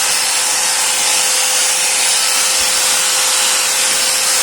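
A new Vityaz MShU 125-1090 angle grinder running steadily at full speed on a test run: a steady whine over a loud hiss from its motor and fan.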